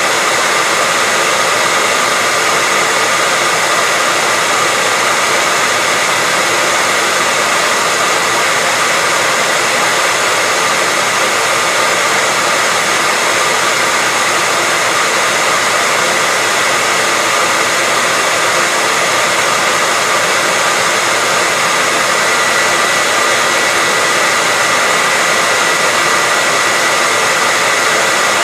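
Hair dryer running steadily: an unbroken rush of air with a thin, steady whine in it.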